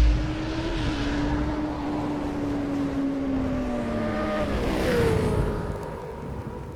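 Aprilia RSV1000's V-twin engine running under way. The engine note holds and slowly sinks, jumps higher about five seconds in, then gets quieter.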